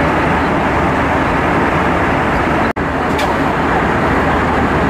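Steady cabin roar inside an Airbus A320-232 airliner: an even rush of engine and airflow noise from its IAE V2500 engines. The sound drops out for an instant just under three seconds in.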